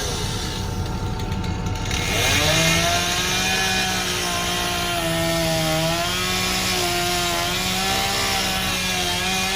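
Chainsaw engine running as it cuts through the boathouse roof, its pitch wavering up and down as the load changes.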